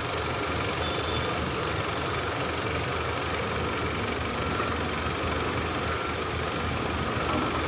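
A heavy vehicle engine running steadily at low revs.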